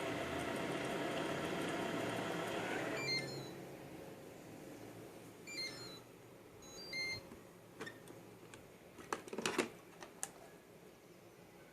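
iClebo Arte robot vacuum running steadily, its motor cutting off abruptly about three seconds in. Short electronic beep chimes follow, three times, then a few sharp clicks near the end.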